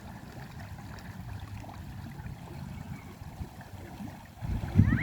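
Flowing river water rushing steadily around people wading in the current, with a louder surge of low noise near the end.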